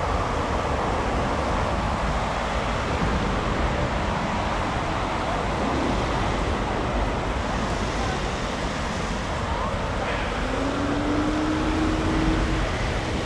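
Steady road traffic noise from passing vehicles, with a faint steady tone coming in about ten seconds in.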